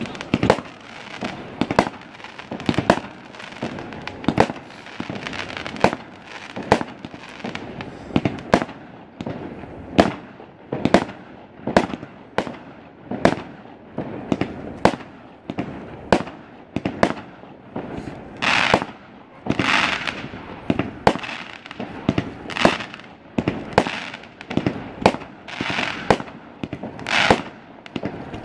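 Fireworks display: a steady run of sharp bangs from aerial shells launching and bursting, about one to two a second, with stretches of longer hissing crackle about two-thirds of the way through and again near the end.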